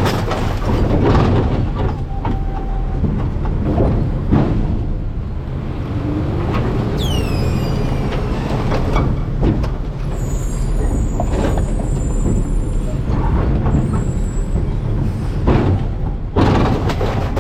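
Garbage truck engine and hydraulic packer running while trash is compacted in the hopper: a steady rumble with scattered crunches and knocks. A short falling squeal comes about seven seconds in, and high metal-on-metal squealing from about ten to fifteen seconds.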